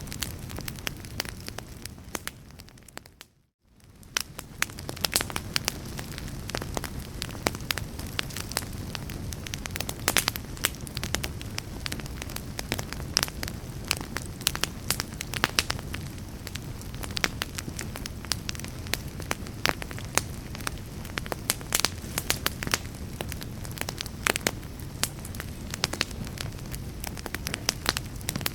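Wood fire in a fireplace crackling, with frequent sharp pops over a low, steady rush. About three seconds in the sound fades away to near silence for a moment, then fades back up.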